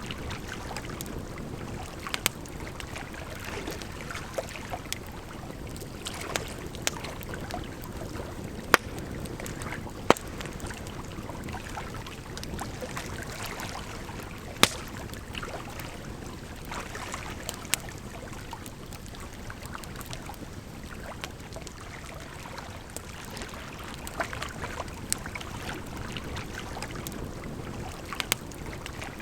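Campfire crackling, with scattered sharp pops, over a steady rush of flowing water.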